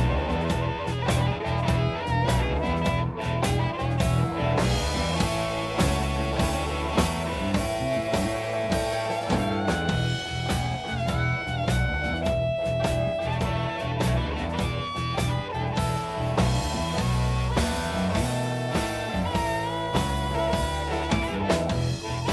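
Blues band playing an instrumental break: a guitar lead with bent, sliding notes over bass and a steady drum beat.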